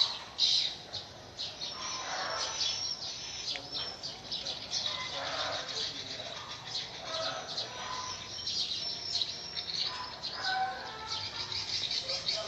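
Small birds chirping: a steady run of short, high notes.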